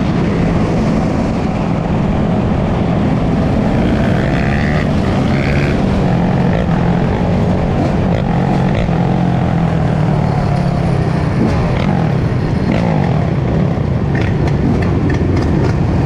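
Dirt bike engines running steadily on the move, with some rises and falls in pitch as the throttle changes.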